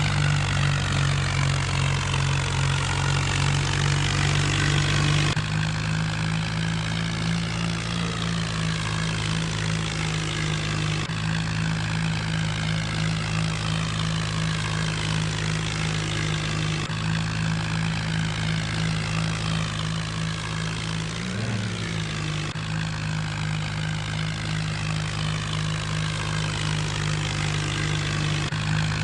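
New Holland tractor's diesel engine running steadily while pulling a loaded trolley, its tone shifting abruptly every five or six seconds.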